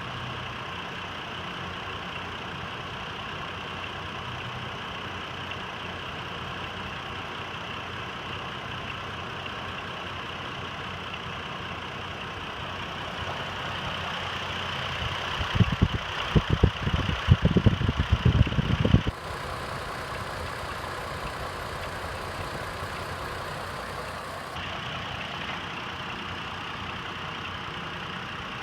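Chevy Trailblazer engine idling steadily with a cylinder 3 misfire. About halfway through, for a few seconds, there is a run of loud, irregular low thumps.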